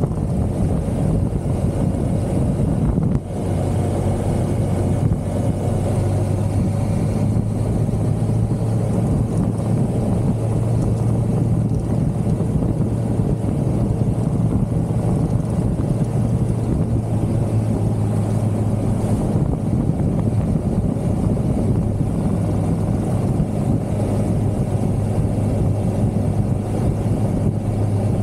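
1982 Suzuki GS550L's air-cooled inline four-cylinder engine running steadily at cruising speed, with wind rush over the microphone. There is a brief dip in the sound about three seconds in.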